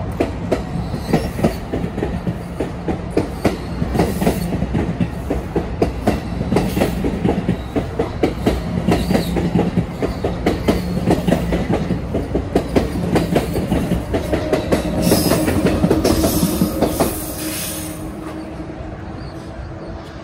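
Passenger train running past, its wheels clattering rapidly over the rail joints; the clatter fades about three seconds before the end.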